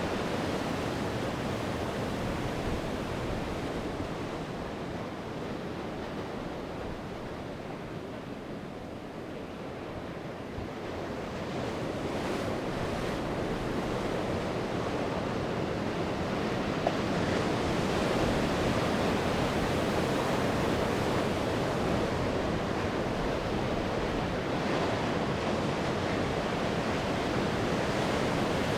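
Sea waves breaking and washing on the shore. The surf eases off for a few seconds, then swells again in the middle.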